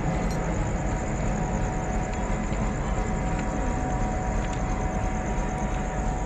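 Steady, unchanging rumble of a train, with a faint high buzz held above it.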